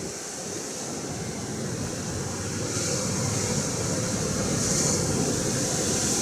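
Atlantic surf washing against the shore, swelling gradually louder, with wind rumbling on the microphone.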